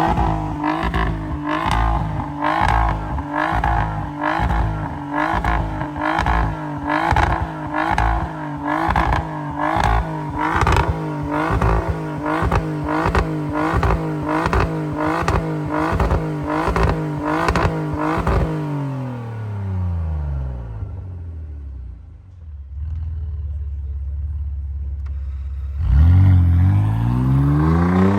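Opel Insignia OPC's 2.8-litre turbocharged V6 through an Emil Performance exhaust, held at raised revs with a regular pulsing of about one and a half pulses a second. About 19 seconds in the revs fall away to a low idle, and near the end the engine is revved up sharply and gets louder.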